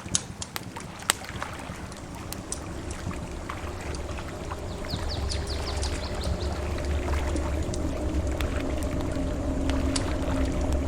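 Campfire crackling with scattered sharp pops over a low steady rumble of surf that swells in over the first seconds. A quick run of high chirps sounds about five seconds in.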